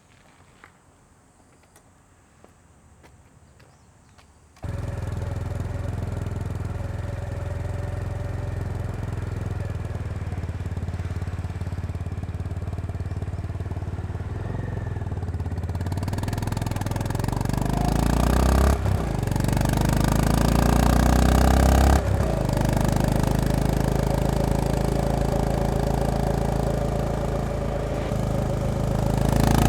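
Honda CB350RS (GB350S) air-cooled single-cylinder engine starting up about four and a half seconds in and running steadily. From about sixteen seconds in it pulls away and gains speed, with two brief dips in sound that fit gear changes, and grows louder near the end.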